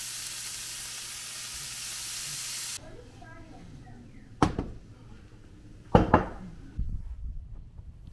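Bacon frying on a hot griddle, a steady sizzle that cuts off abruptly about three seconds in. A few sharp knocks follow, the loudest about a second and a half apart.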